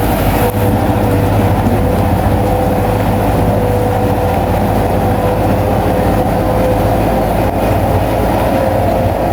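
Bulldozer's diesel engine running steadily under work, loud and continuous with a steady whine above the engine noise.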